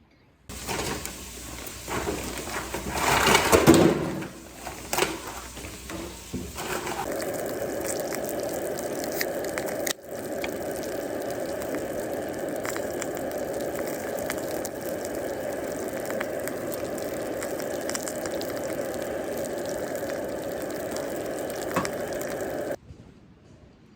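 Water running steadily from a tap into a basin of clams being rinsed for purging, with the shells clattering and splashing for the first several seconds. The sound cuts off sharply near the end.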